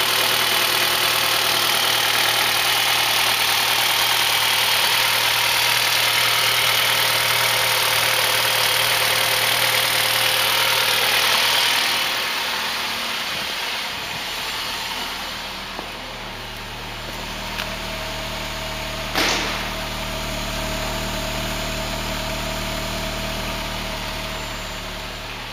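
Mitsubishi 4B12 2.4-litre inline-four engine running steadily, louder for about the first twelve seconds, then settling into a quieter, lower idle. A single sharp click about nineteen seconds in.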